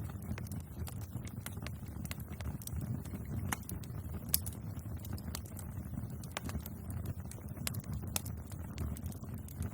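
Wood fire burning with a steady low rumble of flames and irregular sharp crackles and pops, a few louder snaps standing out.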